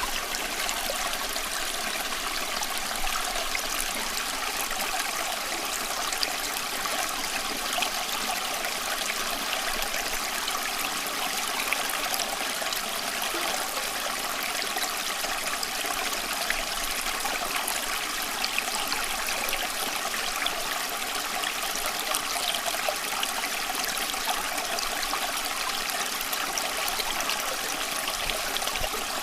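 Running water flowing steadily, an even, unchanging rush with fine splashy detail.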